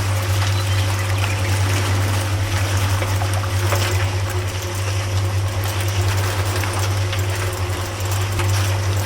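A small motor hums steadily while water trickles and splashes, with scattered small ticks.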